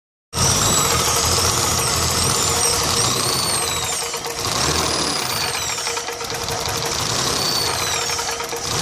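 BMW M20B25 2.5-litre inline-six running with its valve cover off, a fast, steady knock riding over the engine note. The owner traces the knock to the exhaust manifold area and judges it does not sound like the crankshaft bearings.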